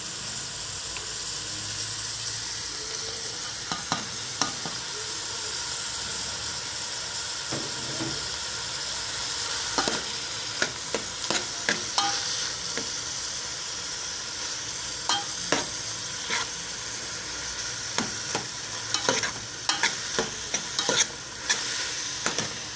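Chicken pieces and diced vegetables sizzling steadily as they fry in oil in a metal pot. A metal spoon clinks and scrapes against the pot as they are stirred, now and then at first, then often from about halfway.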